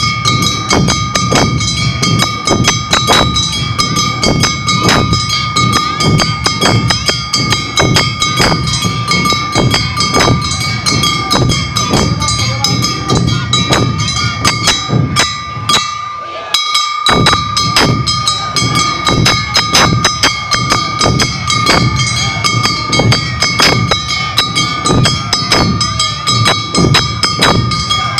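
Awa Odori festival music: drums beating a steady, quick rhythm over steady high ringing tones. The sound drops out briefly about halfway through.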